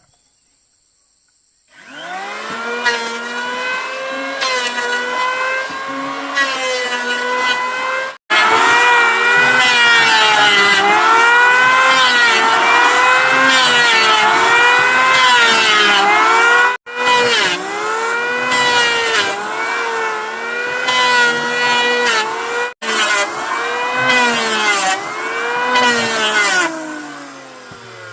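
A high-revving power tool motor runs hard, its pitch dipping and recovering again and again as it bites into wood under load. It winds down near the end.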